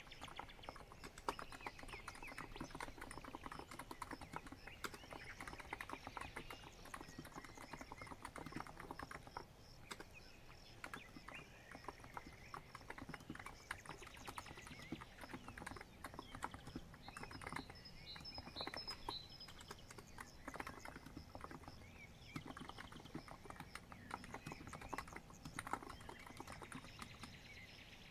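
Steady typing on a COX Empress electro-capacitive keyboard: a continuous run of soft, quick key clicks. Faint bird chirps can be heard now and then.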